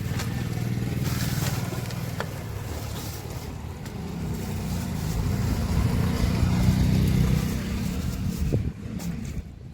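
Tractor's diesel engine running, louder in the second half and dropping off sharply near the end.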